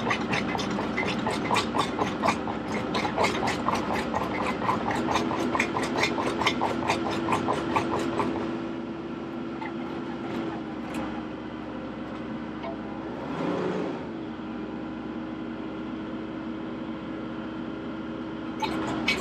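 Tractor engine running steadily, with a fast regular clicking, about four a second, over it for the first eight seconds and again at the very end. A short swell in the engine sound comes about two-thirds of the way through.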